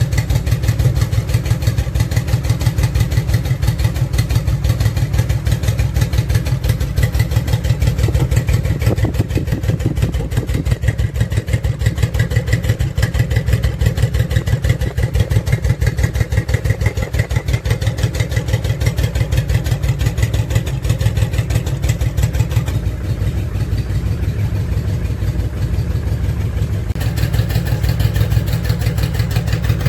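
Honda VTX 1800 F motorcycle's big V-twin idling steadily through its exhaust, a fast, even train of low exhaust pulses.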